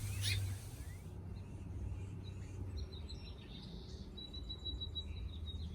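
Faint birds chirping outdoors, short high calls scattered over a low steady background hum, with one thin high note held for about a second past the middle.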